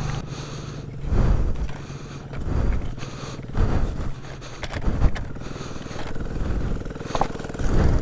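Small single-cylinder mini bike engine revving in uneven bursts, the throttle blipped again and again.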